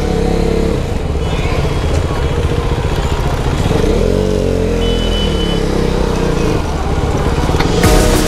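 Motorcycle engine running under way, its pitch rising and falling as the rider works the throttle, once at the start and again about four seconds in. Music comes in near the end.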